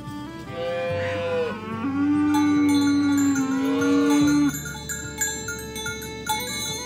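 An ox mooing: one long, loud moo of about four seconds, starting about half a second in. Steady chiming bell-like tones run underneath and come forward once the moo ends.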